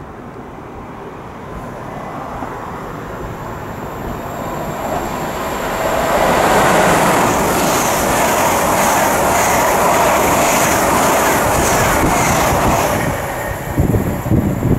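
Express passenger train running through the station at speed without stopping. Its noise builds for several seconds and is loudest for about seven seconds, with a regular clatter of wheels over the rails, then dies away quickly. Near the end, gusty low buffeting hits the microphone.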